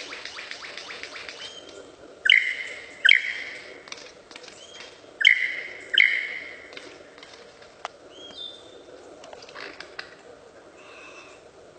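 A bird calling: a fast rattling trill, then two pairs of loud, harsh calls, followed by a few fainter calls.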